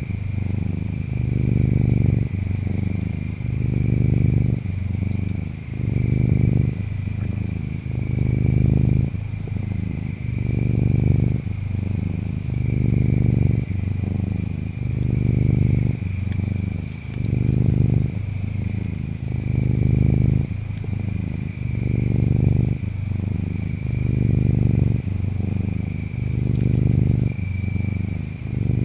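Domestic cat purring close up, the deep purr swelling and easing in a slow rhythm about once every two seconds. Behind it, insects chirp in a steady high trill.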